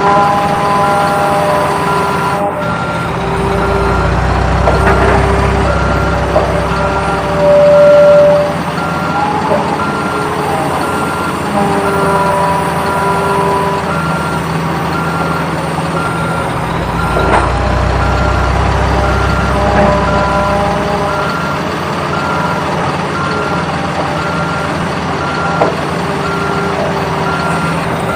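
RC construction toys' sound simulator playing a truck engine with a reversing alarm beeping steadily and regularly, the engine note deepening twice in long stretches.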